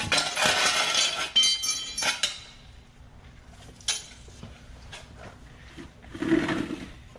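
Metal objects clinking and clattering against each other, with a ringing tone, for about two seconds. Then comes a single sharp click near four seconds and a short scraping rustle a little after six seconds.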